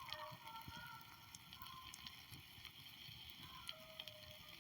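Near silence: a backyard wood fire crackling faintly, and a dog howling faintly in the distance a few times.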